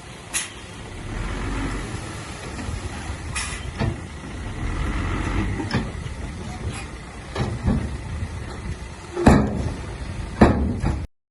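Bulldozer diesel engine running under load, with sharp metallic clanks every second or two. The sound cuts off abruptly just before the end.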